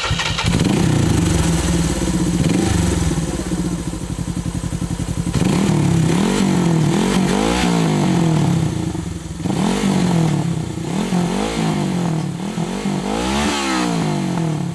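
Suzuki GS400's air-cooled parallel-twin engine through its exhaust, idling with a fast, even pulse for about five seconds, then revved repeatedly, the pitch rising and falling with each blip of the throttle.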